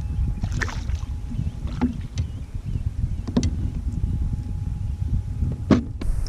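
Sounds of a fishing kayak on the water: a steady low rumble, with four short knocks or splashes spread through it.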